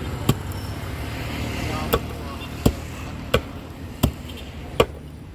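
Knife chopping grilled suya meat on a cutting board: six sharp chops, most about three-quarters of a second apart.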